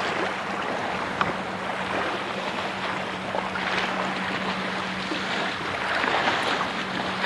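Water rushing along a moving kayak's hull, swelling every two to three seconds, with a steady low hum underneath.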